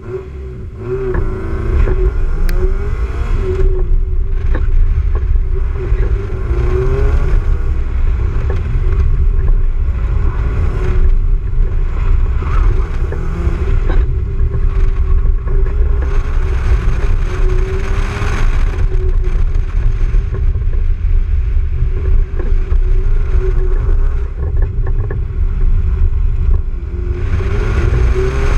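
A car's engine heard from inside the cabin, driven hard: it revs up and falls back again and again as the car accelerates and slows between cone gates, over a heavy low rumble. It gets much louder about a second in as the car launches.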